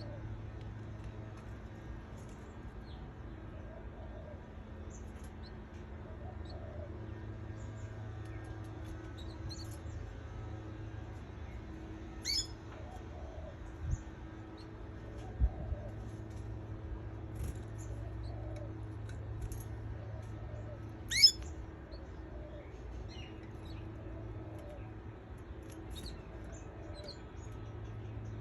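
Canaries chirping: many faint, short, high chirps throughout, with two sharp, louder rising chirps about twelve and twenty-one seconds in, over a steady low hum. Two soft knocks midway.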